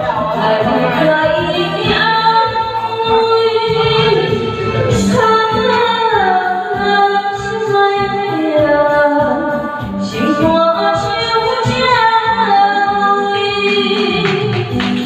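A woman singing a slow, held melody over instrumental backing.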